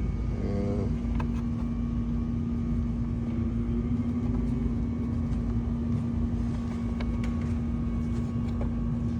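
A steady low mechanical hum comes on just after the start over a low rumble, like a motor or engine running, with a few faint clicks.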